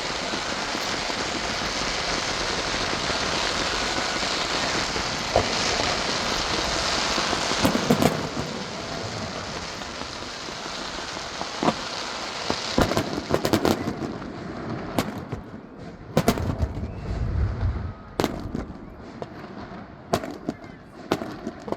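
Fireworks going off: a dense crackling hiss with a few sharp bangs, then from about halfway many separate sharp bangs and cracks.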